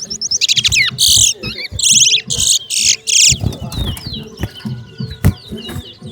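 Towa-towa seed finches singing: loud, fast, buzzy trilled song phrases repeated for about the first three seconds, then quieter scattered chirps and short calls.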